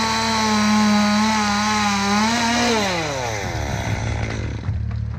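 Two-stroke chainsaw running at full throttle through a cut, its pitch sagging slightly under load. About three seconds in the throttle is released and the engine winds down to idle, with a short knock near the end.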